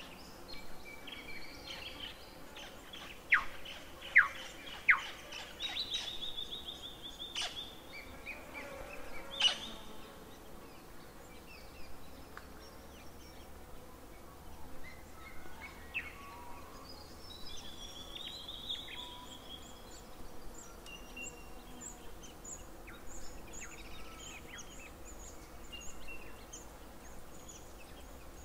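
Birds chirping and singing: three sharp loud chip notes in quick succession about three to five seconds in, then scattered whistled phrases, with faint high ticking toward the end.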